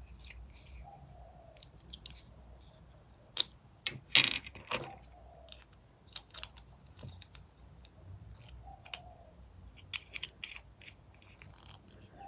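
Small craft items being handled on a table: scattered light clicks and taps, with one sharp clatter and a brief high metallic ring about four seconds in.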